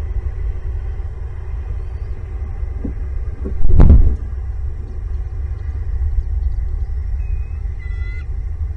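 Steady low rumble of wind buffeting the microphone, with one loud thump about four seconds in. A brief, faint bird call comes near the end.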